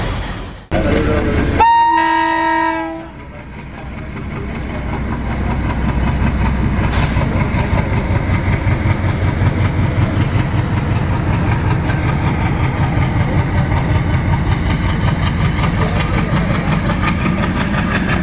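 A train horn sounds once for about a second and a half, followed by the steady rhythmic rumble of a train running that builds up and carries on.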